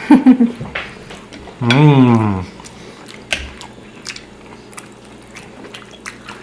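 Close chewing and biting of buttered garlic lobster and shrimp, with scattered small wet clicks and smacks. Two short vocal sounds in the first two and a half seconds, the second falling in pitch.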